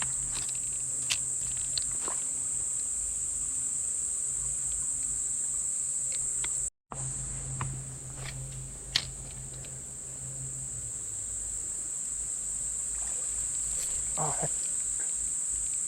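Steady high-pitched drone of rainforest insects, broken off by a brief total dropout about halfway through.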